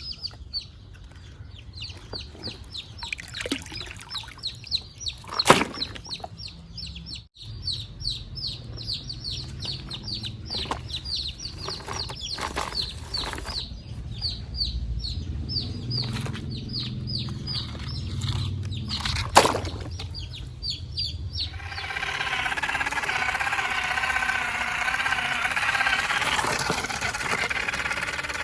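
Small birds chirping rapidly and continuously, many quick falling notes a second, with a couple of sharp clicks. About 22 seconds in this gives way to a steady, slightly wavering whir of a small electric motor, like a toy RC truck's gear motor running.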